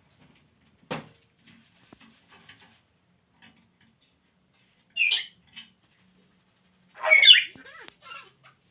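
Parrot squawking twice: a short high call about five seconds in, then a longer, louder squawk around seven seconds. A single sharp click comes about a second in.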